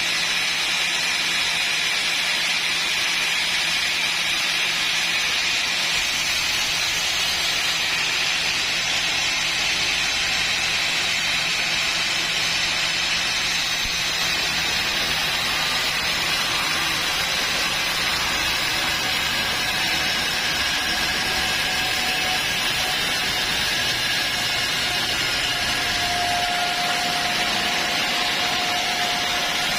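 Sawmill saw running steadily without a break, a dense machine whine and rush; a thin higher whine becomes clearer near the end.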